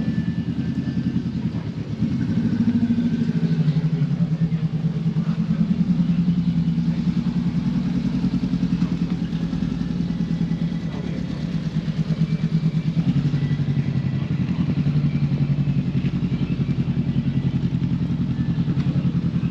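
Motorcycle engine running steadily with a rapid low pulse, getting a little louder about two seconds in and easing briefly midway.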